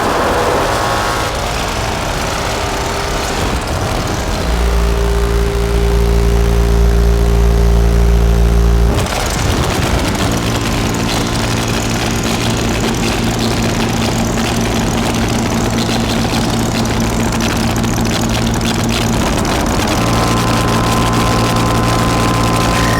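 Distorted modular-synthesizer drone of sustained, buzzing low tones, run through fuzz and filter pedals. About four seconds in it swells into a louder, deeper drone, then changes abruptly about nine seconds in to a different steady chord of tones that runs on.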